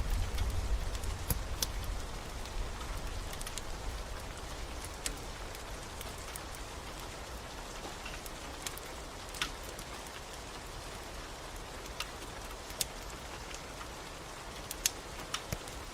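Steady rain hiss with a scattered handful of sharp pops and crackles from a wood fire burning in a fireplace. A low rumble under the rain fades away in the first couple of seconds.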